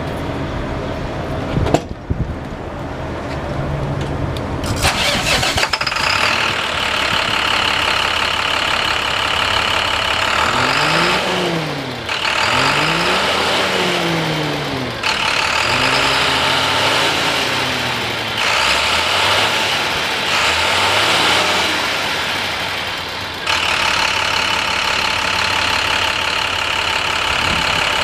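2012 International 4400 truck's diesel engine cranking and catching about five seconds in, then idling. It is revved about five times, each rev rising and falling back, before settling to a steady idle near the end.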